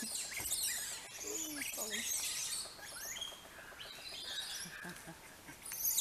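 Several birds chirping and calling together in a busy chorus of quick, high, sliding notes.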